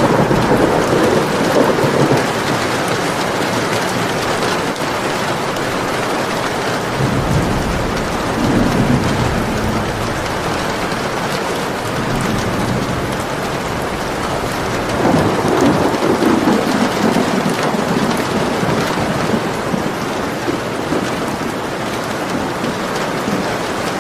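Steady heavy rain falling on a surface, with thunder rolling in three low swells: at the start, about a third of the way in, and again past the middle.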